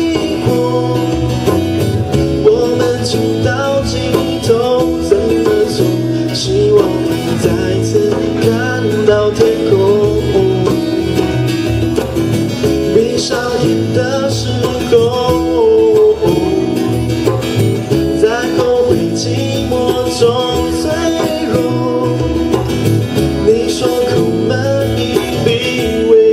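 Live band music with guitars and a winding lead melody over a steady beat.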